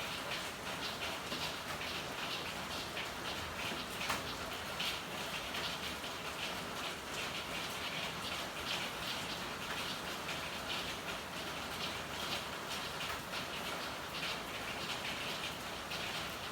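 Steady rain falling, with many small drop hits pattering on hard surfaces, and one sharper tick about four seconds in.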